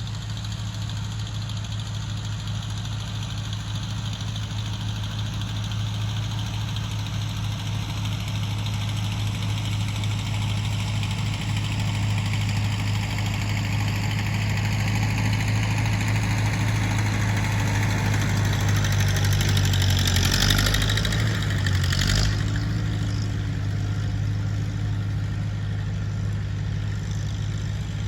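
Tractor engine running steadily, growing slowly louder. About two-thirds of the way through it briefly gets louder and rougher twice, then settles a little quieter.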